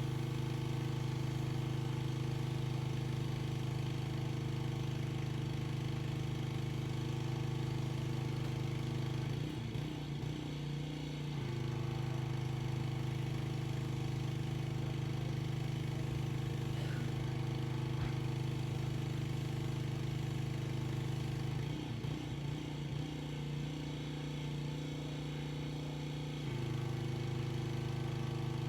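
Gas engine of a pressure washer running steadily. Twice, about ten seconds in and again from about 22 to 26 seconds, its pitch wavers and dips before settling back.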